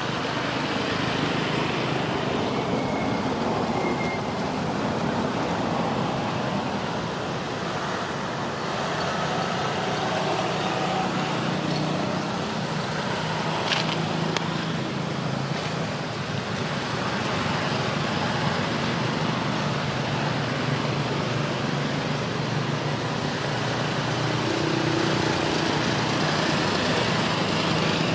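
Steady outdoor background noise like road traffic passing, an even rumble that swells and fades slightly.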